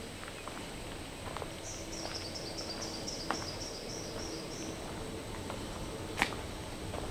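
A bird gives a run of about ten quick, high, down-slurred notes lasting about three seconds, over soft footsteps on a dirt trail. A single sharp snap comes about six seconds in.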